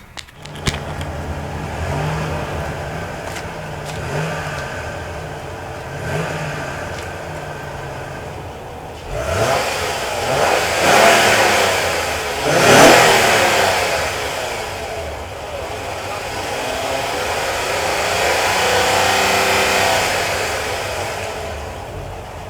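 Honda 3.5-litre i-VTEC V6 running with a few light throttle blips, then revved hard twice in quick succession, then held at raised revs for several seconds before dropping back toward idle.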